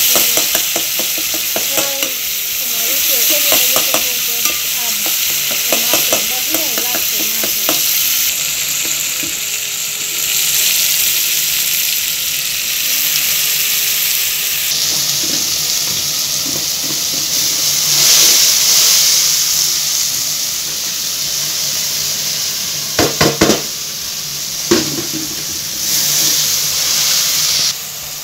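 Chopped vegetables frying in oil in an aluminium pot with a steady sizzle while a metal spoon stirs and scrapes them. Near the end comes a quick run of sharp knocks, with one more a moment later.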